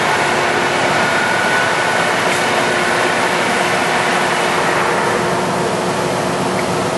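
American Pacemaker heavy-duty engine lathe running under power, its spindle and drive making a steady, loud mechanical noise with a faint steady whine.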